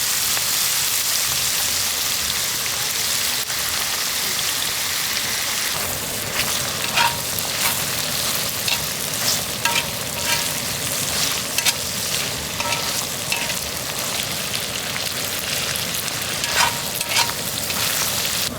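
Sliced duck meat frying in a hot pan with a steady sizzle, with garlic added in the middle; from about six seconds in, sharp pops and clicks break out over the sizzle.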